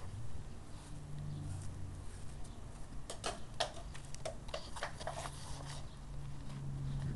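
Small birds chirping in a quick scattered series about halfway through, over a steady low hum.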